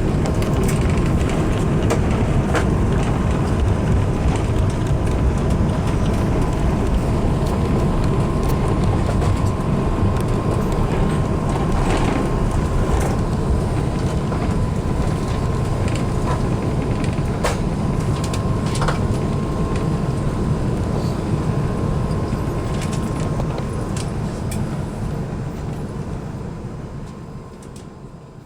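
Cabin noise inside an Airbus A380 on the ground after landing: a steady low rumble with a faint steady whine and occasional light rattles and clicks. It fades out near the end.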